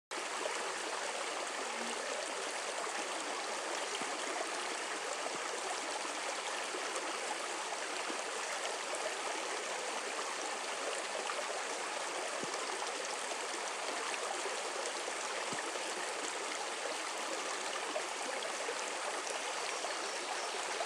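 Steady rushing and gurgling of running water from a stream flowing over rocks.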